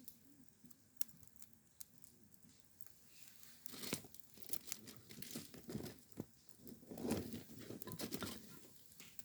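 Crinkling and tearing of something being handled, in several irregular bursts through the second half, after a few scattered sharp clicks.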